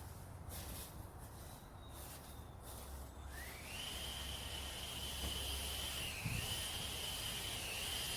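Insects buzzing steadily at a high pitch. The buzz drops away at the start and comes back a little over three seconds in, rising in pitch as it returns.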